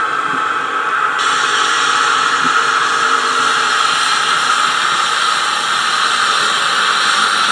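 Digital sound decoder playing a class 106 shunting diesel's engine sound through the tiny speaker of a TT-scale model locomotive: a steady, hissy running sound, with a higher hiss switching on abruptly about a second in.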